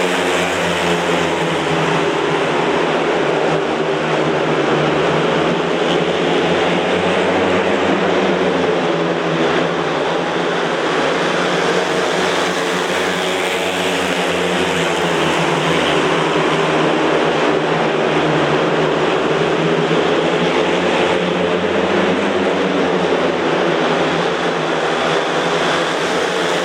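Speedway motorcycles racing, their 500 cc single-cylinder methanol engines running loud and without a break, the engine pitch rising and falling as the riders go round the track.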